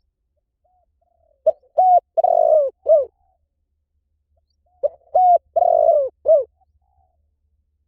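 Spotted dove cooing: two phrases of several short coos, each with a longer coo in the middle, the second phrase starting about three seconds after the first.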